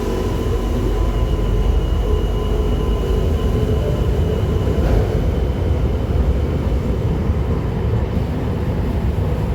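Old Tyne and Wear Metrocar pulling out of an underground station, a steady heavy rumble with faint high steady tones above it.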